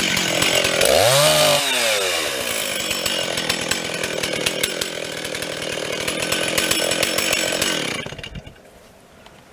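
Stihl chainsaw cutting storm-felled wood: the engine speed rises and falls once about a second in, then it runs steadily and stops about eight seconds in.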